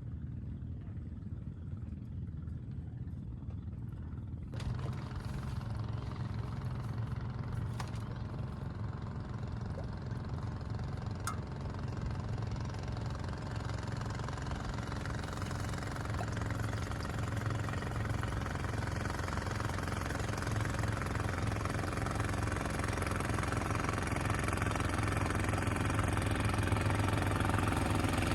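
A small engine running steadily with a low hum; a hiss joins about four seconds in and the sound grows gradually louder.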